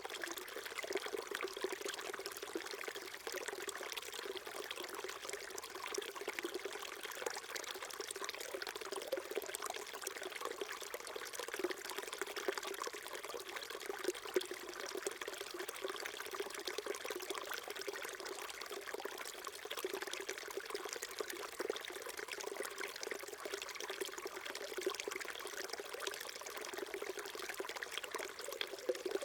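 Small stream flowing and trickling over rocks, a steady burble of water.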